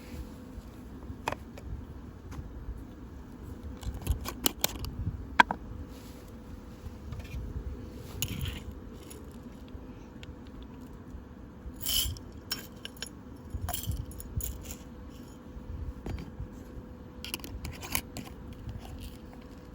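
Scattered clicks, clinks and scrapes of small hard objects being handled, with a sharp knock about five seconds in and a cluster near the middle, over a faint steady hum.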